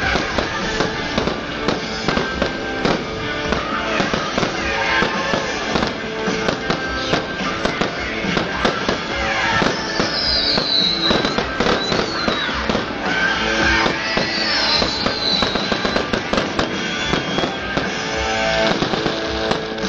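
A fireworks display: a dense run of bangs and crackling throughout, with music playing loudly alongside.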